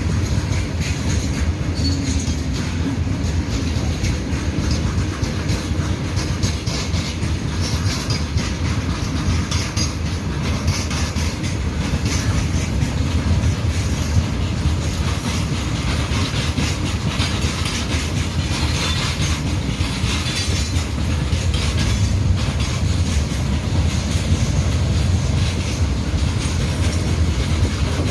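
Loaded BCNHL covered goods wagons rolling slowly past. Their wheels click steadily over the rail joints above a continuous low rumble.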